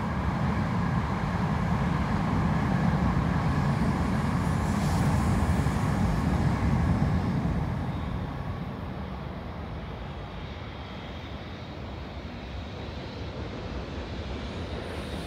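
Low, steady rumble of distant trains on the line. It is loudest for the first seven or eight seconds, then eases off as a red EH500 freight locomotive approaches from far down the track.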